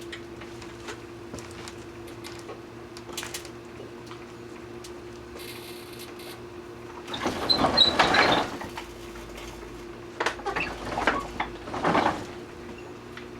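Microwave oven running with a steady hum while bubble lights heat inside it, with two loud stretches of crackling and popping, about seven seconds in and again from about ten to twelve seconds in, as the bulbs' plastic and glass give way and catch fire.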